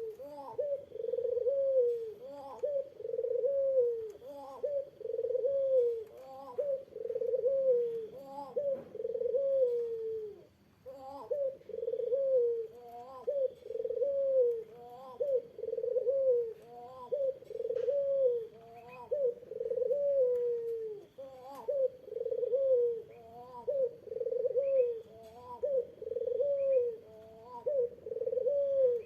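Barbary dove (puter) cooing over and over, about one coo a second, with a short pause about ten seconds in.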